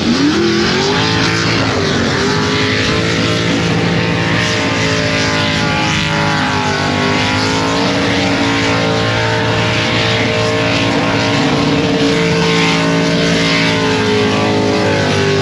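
Car engine revved up sharply and held at high revs, its pitch wavering and dipping slightly a few times, over a steady hiss.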